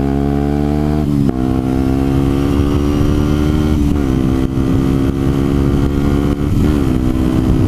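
A Yamaha WR125's single-cylinder four-stroke engine running under way. Its pitch dips sharply three times, about a second in, around four seconds in and near the end, as with gear changes or throttle lifts, and holds steady or climbs slowly in between.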